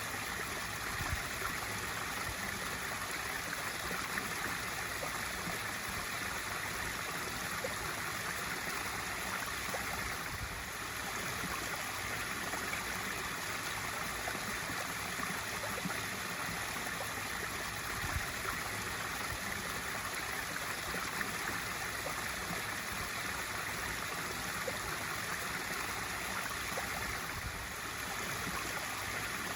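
Swimming pool waterfall feature: water spilling steadily into the pool with a continuous splashing rush.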